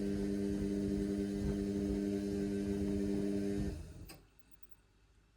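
Indesit washing machine running mid-wash with a steady motor hum, which cuts out near the end, leaving near silence with a faint click.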